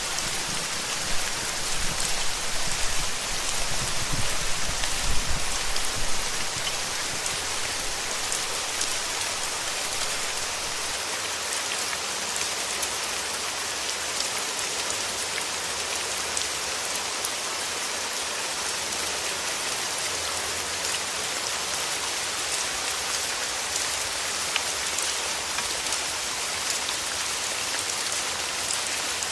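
Steady rain falling on a surface, an even hiss with fine patter of drops. A low rumble fades out in the first six seconds.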